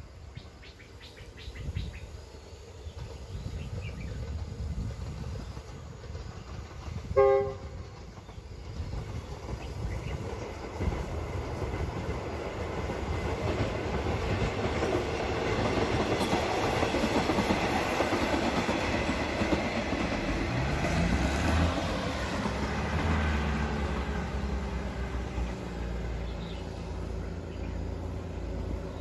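Diesel train approaching and passing, with one short horn blast about seven seconds in. Then the rumble and clatter of the wheels builds to a peak about two-thirds of the way through and eases off.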